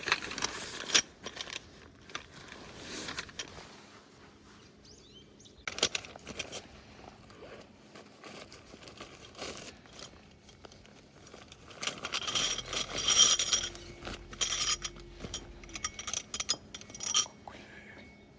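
Objects being handled: a run of clinks, knocks and rustling, busiest about two-thirds of the way through.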